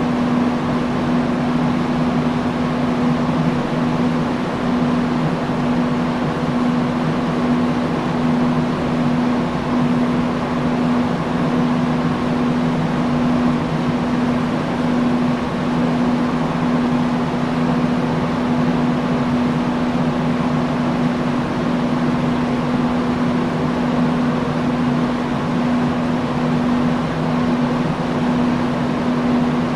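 Industrial fan running steadily: an even rush of moving air over a steady low hum.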